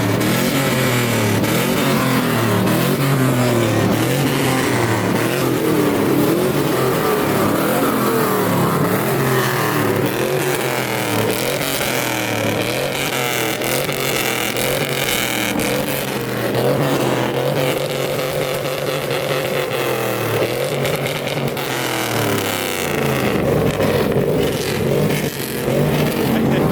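Truck engine revving loudly and repeatedly, its pitch climbing and falling with each rev and settling back between them.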